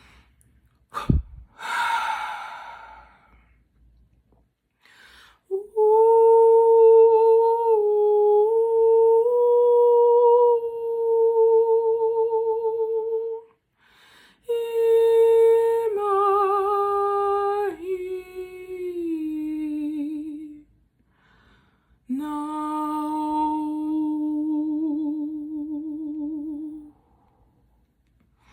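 A woman's wordless vocal toning: three long held notes with a wavering vibrato, the second stepping down in pitch and the last lower still. A sharp click about a second in is followed by an audible breath in before the first note.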